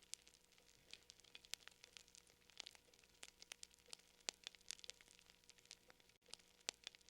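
Quiet crackling of a wood fire: irregular small snaps and pops, several a second, over a faint steady hum, with a momentary dropout about six seconds in.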